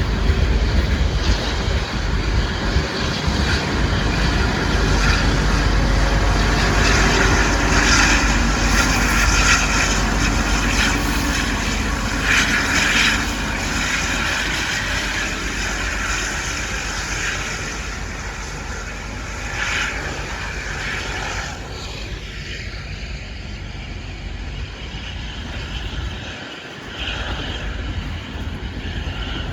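Freight train rolling past: a steady, loud rumble of wheels on rail with a noisy rattle, easing off and growing quieter after about twenty seconds.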